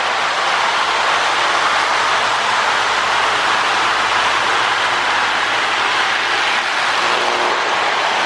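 Several Marx 396 tinplate toy locomotives pulling their cars around tinplate track, giving a steady whirring run of motors and metal wheels on the rails.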